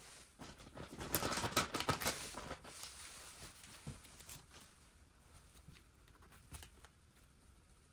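A flurry of light rustling and tapping handling noises about a second in, thinning out to a few scattered ticks.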